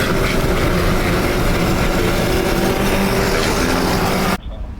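A motor vehicle's engine running under a loud, steady rush of wind noise, cut off abruptly near the end.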